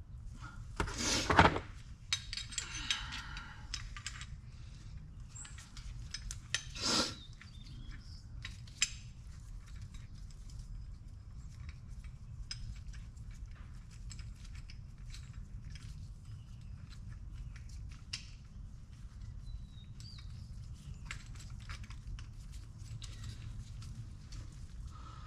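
Metal hand tools clinking, clicking and scraping while tubing is set up in a flaring tool. Two louder bursts of metal scraping and rattling come about a second in and about seven seconds in, with a steady low hum underneath.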